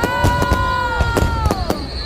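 Fireworks bursting with rapid bangs. Over them, one long high cry from a spectator rises, holds for about a second and a half and falls away.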